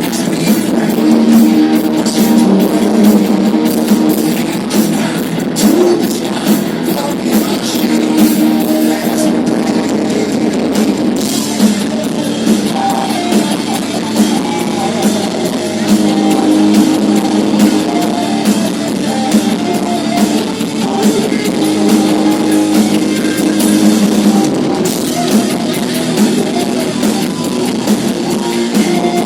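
Live hard rock band playing loud, with distorted guitar chords, drum kit and bass, recorded from the audience so the sound is somewhat boomy.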